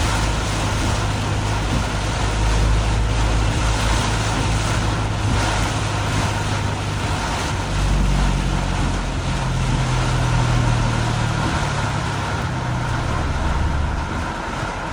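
Road traffic in a heavy downpour: vehicle engines humming under a steady hiss of rain and tyre spray on the wet road. A different engine note comes in about eight seconds in and fades near the end.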